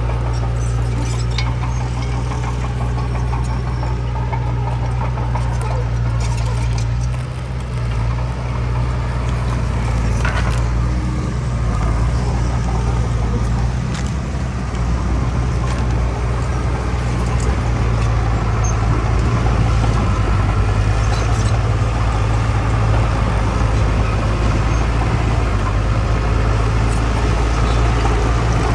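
Heavy diesel engine of earthmoving machinery running steadily with a deep rumble, growing a little louder past the middle, with a few scattered metallic clanks.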